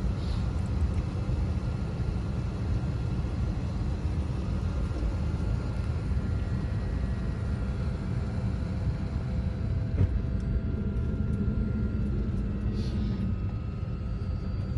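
Steady low rumble of a jet airliner's engines at idle, heard inside the passenger cabin while the plane is on the ground before takeoff, with a faint steady whine over it. A single click comes about ten seconds in, and near the end a faint tone rises slightly.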